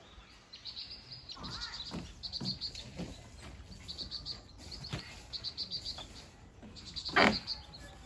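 Small birds singing: a short, high trilled phrase repeated about once a second. Under it come a few soft knocks and one louder thump about seven seconds in.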